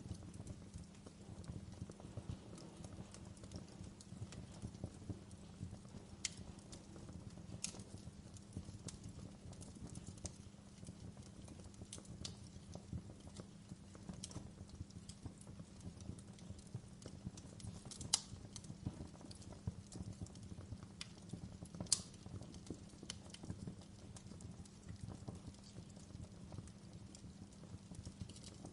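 Wood fire crackling in a fireplace: a steady low crackle with sharp pops every few seconds, the two loudest a little past the middle.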